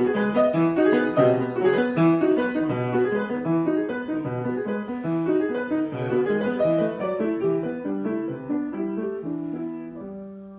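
Solo piano improvisation: a flowing pattern of broken chords that gradually grows softer, ending on a held chord about ten seconds in that dies away.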